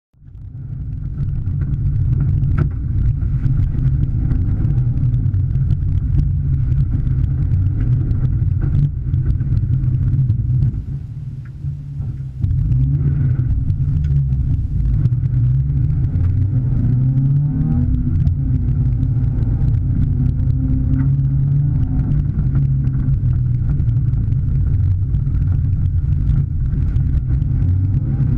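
Flat-four boxer engine of a Toyota 86-type coupe driven hard on a khanacross run, with revs rising and falling through gear changes. The engine drops off sharply for about two seconds roughly eleven seconds in before coming back on hard.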